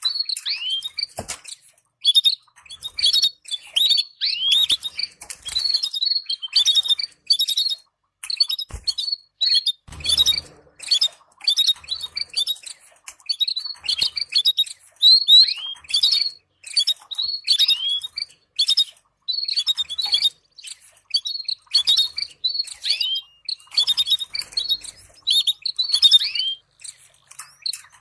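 Canaries twittering: quick, irregular runs of short high chirps and downward-sliding calls, broken by brief pauses.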